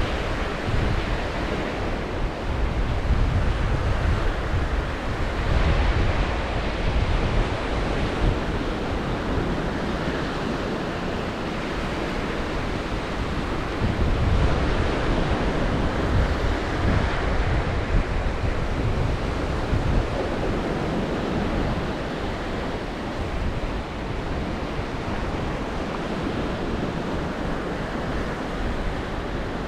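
Black Sea surf breaking and washing on the shore, rising and falling in swells, with strong wind buffeting the microphone as a low rumble.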